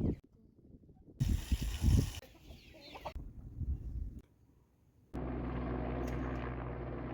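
Chickens clucking in a few short clips that start and stop abruptly, then background music comes in about five seconds in.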